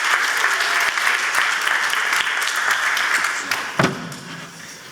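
Audience applauding, dying away after about three and a half seconds, with a single thump near the end.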